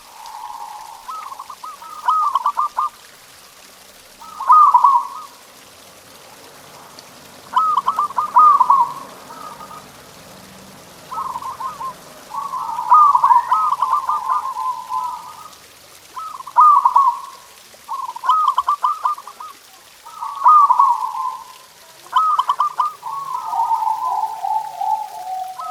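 Zebra doves (perkutut) cooing: short phrases of quick staccato coos repeated about every two seconds, with longer rolling runs of coos near the middle and near the end.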